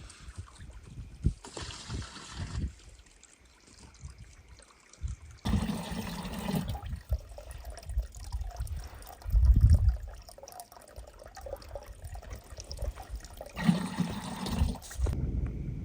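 Water trickling and dribbling, heard in a few short stretches that change abruptly, with a brief low rumble near the middle.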